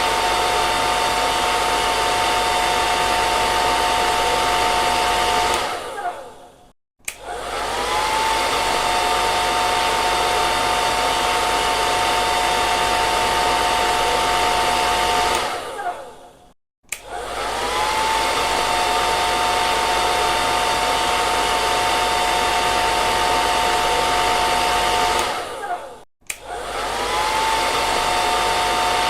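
Hair dryer blowing with a rushing airflow and a steady high motor whine. Three times, about ten seconds apart, it dies away to silence for a moment and starts again, the whine rising as the motor spins back up.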